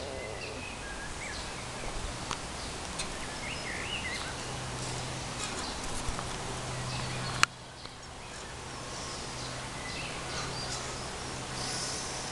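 Outdoor ambience: birds chirping now and then over a steady background hiss, with one sharp click about halfway through.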